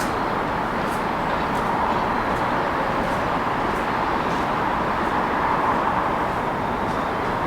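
Steady city traffic noise: an unbroken wash of road vehicles, with a few faint ticks scattered through it.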